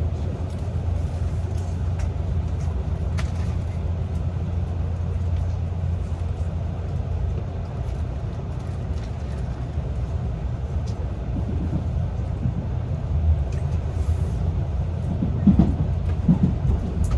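Limited express Shinano train running on the rails: a steady low rumble with a few faint clicks.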